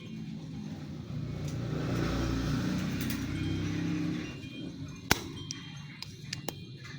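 A motor vehicle passing by, its engine sound swelling and then fading away over a few seconds, followed by a single sharp click about five seconds in.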